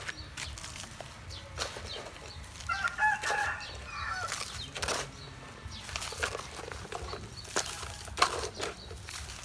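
A chicken calling once, briefly, about three seconds in, amid repeated sharp clicks and knocks.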